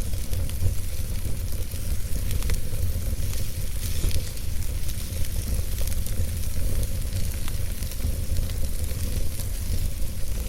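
Wood fire burning in a fireplace: a steady low rumble and hiss of flames with frequent small crackles and pops from the logs.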